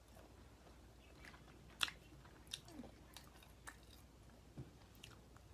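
Faint, close-up chewing: soft wet mouth clicks and smacks of someone eating boiled seafood, with a sharper click about two seconds in.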